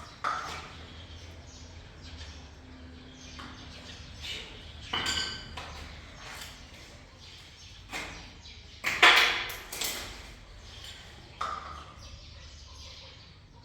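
Scattered clinks and knocks of objects being handled, the loudest a sharp knock about nine seconds in, over a steady low hum.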